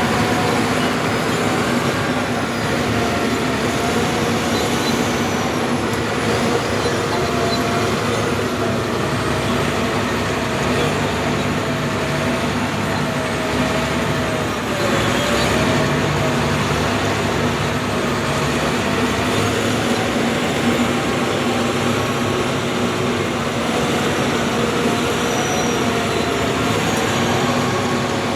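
Bulldozer's diesel engine running steadily, with a faint wavering whine above the engine noise.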